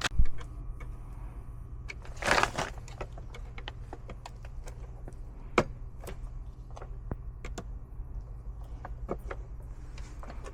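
Scattered small clicks and taps, with a brief rustle about two seconds in, from hands working on a condensate pump's wiring, over a steady low hum.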